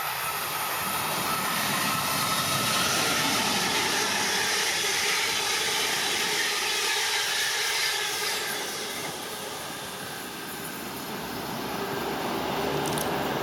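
A train running past at speed: a steady rushing noise that swells, eases off about two-thirds of the way through, then builds again.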